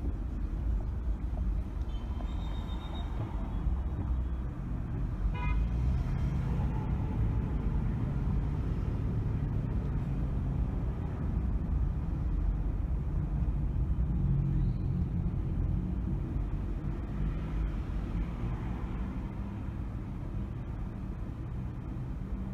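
Steady low road and engine rumble of a car driving through city streets, with a short car horn toot about five seconds in.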